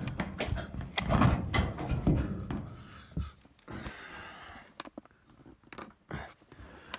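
Irregular knocks and clunks from the inside of a dryer cabinet as hands work a new drive belt around the motor pulley and the spring tensioner, with a brief scrape about halfway through.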